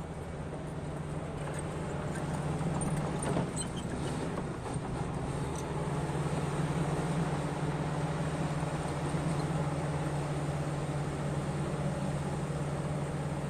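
Heavy mining machine's diesel engine running steadily, with a few knocks and clanks about three to five seconds in.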